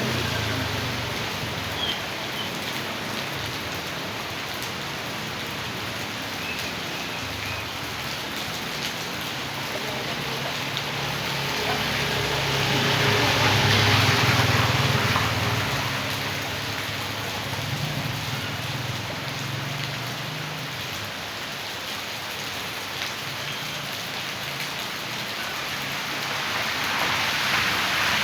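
Rain pouring down, a steady hiss that swells about halfway through and eases off again.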